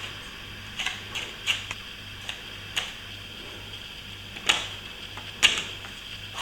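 Plastering hand tools tapping and clicking: several irregular sharp taps, the loudest two near the end, over a faint steady hum.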